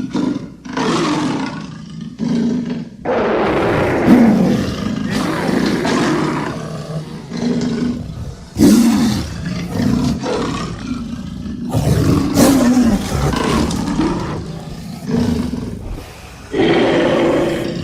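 A cartoon monster's roars and snarls, mixed from big-cat and other wild animal roars. They come one after another, about a dozen in all, each lasting a second or two.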